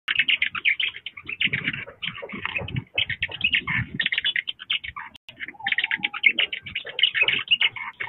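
Many birds chirping together, a dense run of short, quick, overlapping calls.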